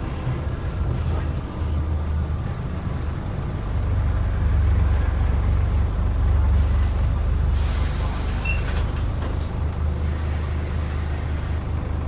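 Scania N94UD double-decker bus's DC09 five-cylinder diesel running, getting louder from about four seconds in as it pulls. Around eight seconds in, a short hiss of air from its air system cuts across the engine.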